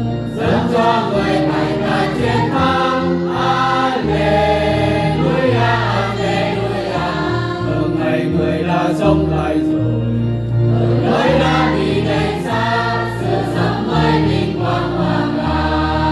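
Closing bars of a gospel-style hymn: music with choir-like voices over a steady bass line.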